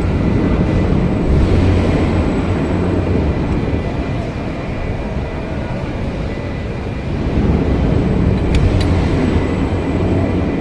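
Engine running with a steady low rumble that swells twice, with a few light metallic clicks near the end.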